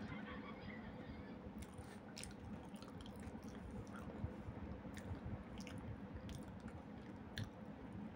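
A person chewing soft cooked sweet potato, with scattered small wet mouth clicks and smacks.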